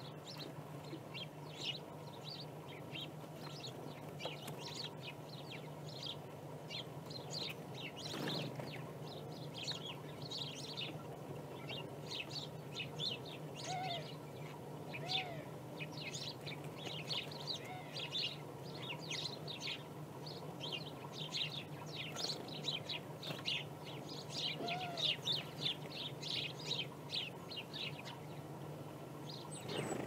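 Small songbirds chirping: many short, high chirps in quick succession, busiest in the second half, over a steady low hum.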